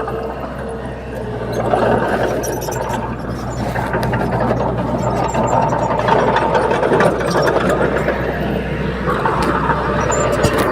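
Bulldozer's diesel engine running, getting louder about two seconds in, with scattered clicks and clanks.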